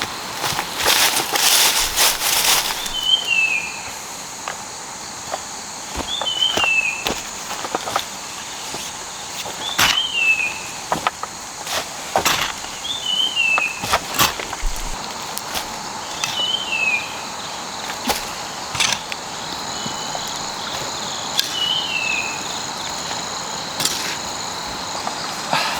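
Forest ambience: a bird repeats a short falling chirp about every three to four seconds over a steady high insect drone. Scattered sharp snaps and rustles, most of them in the first few seconds, come from someone moving about and handling brush.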